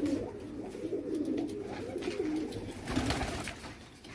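Domestic pigeons cooing, several low wavering calls overlapping, with a short rustle about three seconds in.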